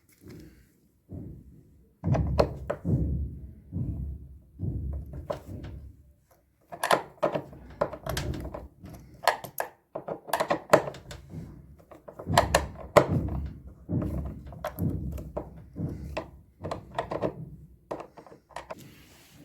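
Repeated heavy knocks and thuds in quick groups, several a second with short pauses: work being done on a washing machine's tub during a drum-bearing change.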